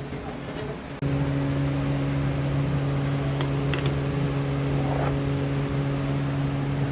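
Steady machine hum of a motor running at constant speed, jumping abruptly louder about a second in, with a few faint ticks.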